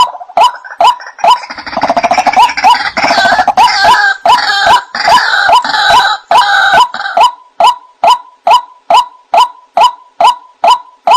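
White-breasted waterhen (ruak-ruak) calling: a steady run of short 'wak' notes, about two and a half a second. From about a second in until about seven seconds in, a louder, denser stretch of overlapping croaking calls rides over them.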